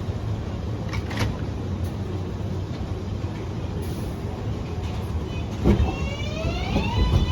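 R188 subway train pulling out of the station: its propulsion whine rises steeply in pitch over a steady low rumble and then holds level near the end. A sharp knock about a second in and a louder thump just before the whine begins.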